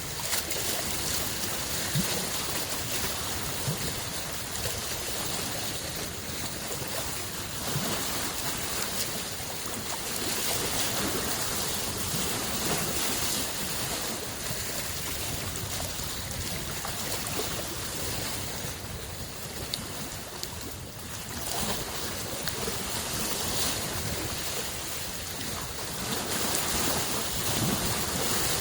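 Lake waves washing in a steady wash of water that swells and eases, with a quieter stretch about two-thirds of the way through.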